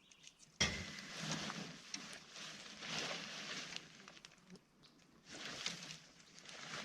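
A sharp knock about half a second in, then irregular bursts of rustling and swishing as the nylon of a truck-bed tent is handled and spread out.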